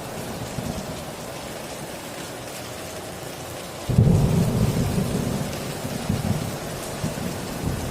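Heavy rain drumming steadily on a tin roof. About four seconds in, a loud low thunder rumble breaks in suddenly and fades slowly, swelling again near the end.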